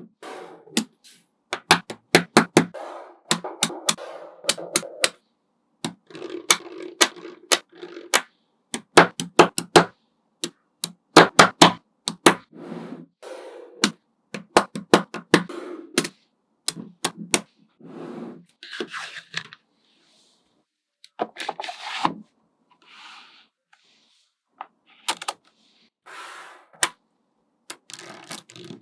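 Small magnetic balls clicking sharply as they snap together, in quick runs of clicks, with softer rubbing and rolling of the balls in between, more of it in the later part.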